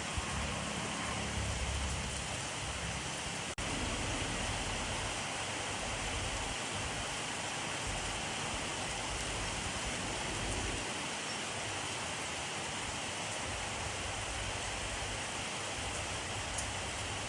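Steady rainfall, an even hiss of rain with no distinct drops standing out, broken by a momentary dropout about three and a half seconds in.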